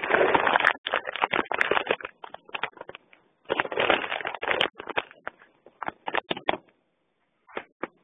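Heavy rain and wind, heard through a phone's narrow-band audio as choppy bursts of hiss with sudden dropouts, thinning to a few short blips after about six and a half seconds.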